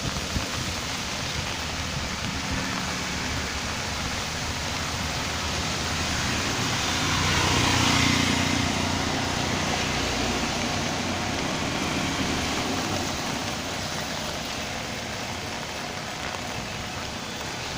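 Steady rain falling, with a motor vehicle passing by; it is loudest about eight seconds in.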